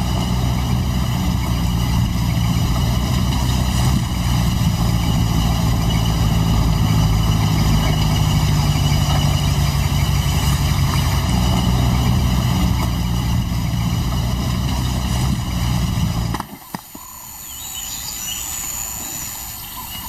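A motor vehicle's engine running steadily, cut off abruptly about sixteen seconds in. Quieter outdoor background with faint high chirps follows.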